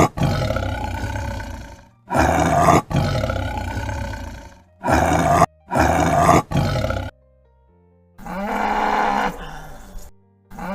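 Big cat roaring: a string of about seven loud roars and growls, one after another, some starting and stopping abruptly, with a silent pause of about a second past the middle.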